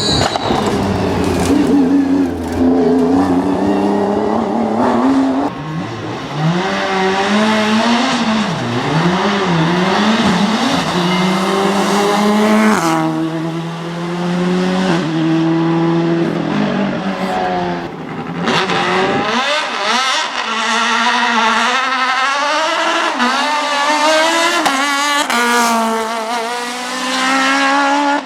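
Hillclimb race car engines revving hard at full throttle, the pitch repeatedly climbing and then dropping sharply with gear changes and lifts; about two-thirds of the way through, the deep bass drops out.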